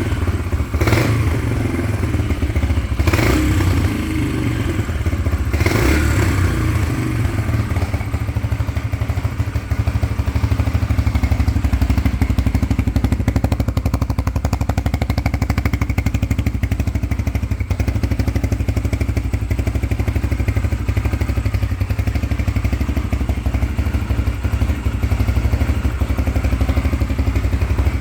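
Yamaha TT-R 125's small single-cylinder four-stroke engine running steadily with a low rumble. There are three brief sharp bursts in the first six seconds, then it runs evenly.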